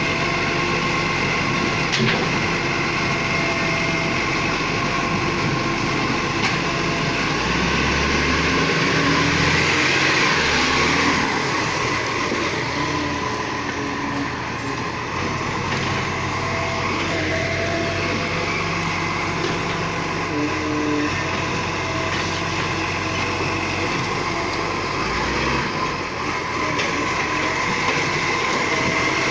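Garbage truck running steadily, its engine note shifting for a few seconds about eight seconds in and again briefly near the end.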